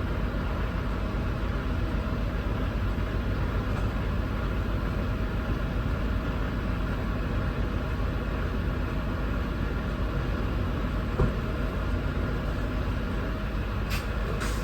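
Semi truck's diesel engine and road noise heard from inside the cab, a steady low rumble, with a single short knock about eleven seconds in.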